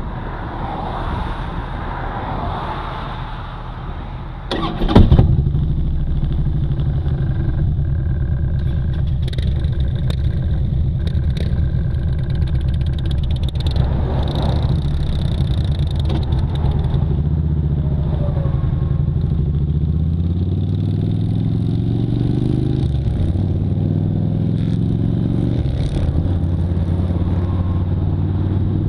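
Motorcycle engine starting with a sharp burst about five seconds in, then running steadily. Its pitch rises and drops a few times in the second half.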